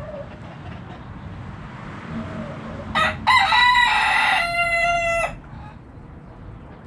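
A rooster crows once, about three seconds in: a short first note, then a long held call of about two seconds that cuts off sharply. Hens cluck faintly underneath.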